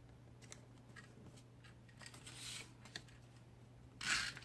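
Soft rustling and light taps of cardstock pieces being handled and laid in layers on a card, with a brief louder rustle of paper near the end, over a faint steady low hum.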